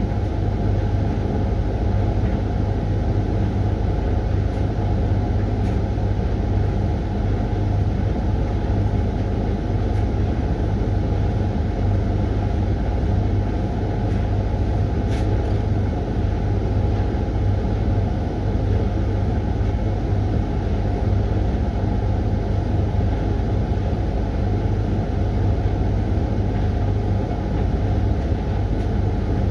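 Hoover washing machine running steadily through its Refresh cycle, a loud, even drone with a strong low hum and no change in level.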